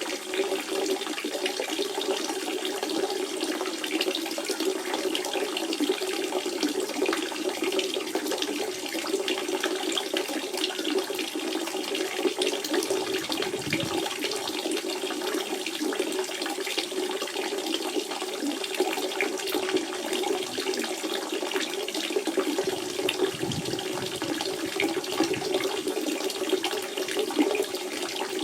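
Natural spring water running and splashing steadily, a continuous trickling gush with a strong low burble.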